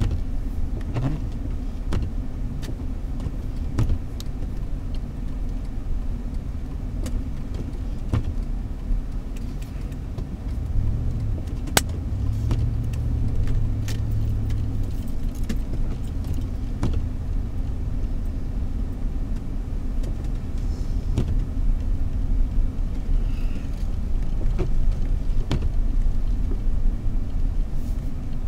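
Car being driven slowly on snowy roads, heard from inside: steady engine and tyre rumble, with scattered sharp clicks and rattles.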